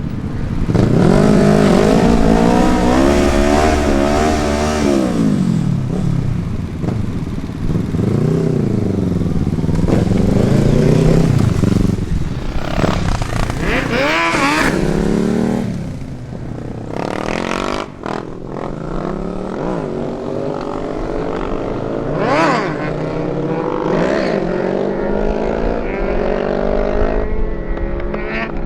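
Vehicle engines revving and accelerating away one after another, their pitch climbing and dropping with each rev and gear change; a sharp high-pitched rev about fourteen seconds in, and quieter passes after that.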